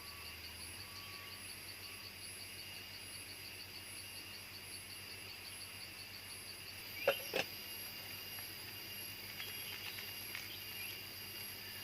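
Jungle insects calling, with a steady high trill and a rapid pulsing chirp. About seven seconds in come two short, sharp sounds a fraction of a second apart.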